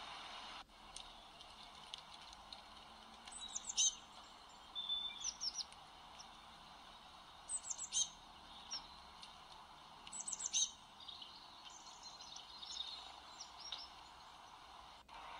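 Small birds singing: short phrases of quick, high falling notes about every two to three seconds, then softer twittering, over a steady background hum.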